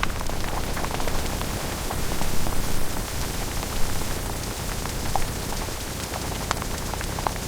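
Rain falling, a steady hiss with scattered sharp drop ticks.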